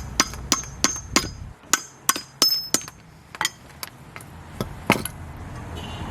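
A hammer striking metal about a dozen times in quick, uneven taps, several of the strikes ringing with a high metallic tone, with a pause before the last few.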